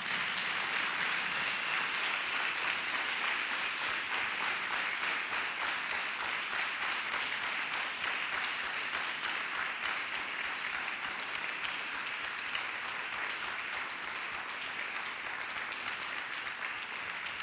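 A congregation applauding, a steady dense patter of many hands clapping that slowly fades toward the end.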